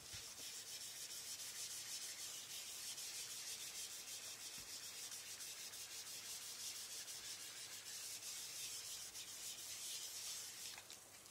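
Pen writing steadily on a surface: a continuous scratchy rubbing made of many quick fine strokes, stopping shortly before the end.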